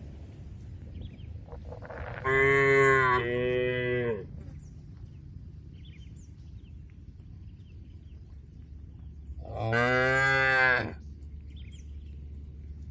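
A cow mooing twice: a long two-part moo about two seconds in, then a shorter single moo near the end.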